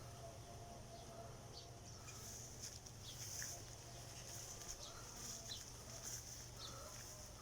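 Faint outdoor animal sounds: repeated short high chirps, with a few softer mid-pitched calls, over a steady low hum.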